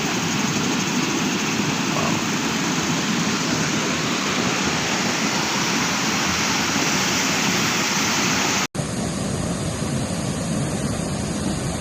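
A small waterfall rushing steadily with falling water. About nine seconds in the sound cuts out for an instant, then the rush goes on, duller and with less hiss.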